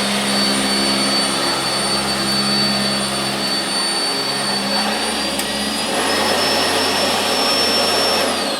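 Sanitaire SC679J upright vacuum cleaner running steadily on carpet with a high motor whine, switched off near the end so the motor winds down.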